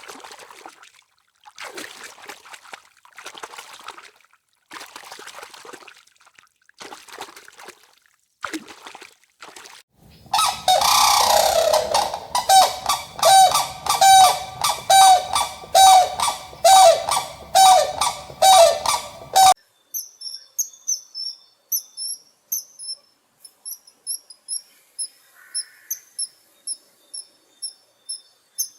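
Birds calling: faint scattered sounds at first, then about ten seconds in a long run of loud, evenly repeated calls, roughly one and a half a second. These stop suddenly and give way to rapid, very high, thin chirping.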